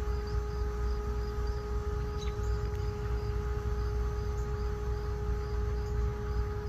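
An insect, cricket-like, chirps with short high pulses repeating evenly a few times a second. Under it run a steady hum and a low rumble.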